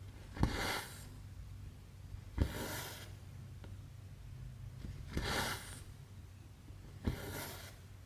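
Cross-stitch needle and thread being pulled through stamped fabric: four swishes about two seconds apart, each starting with a small tap, over a steady low hum.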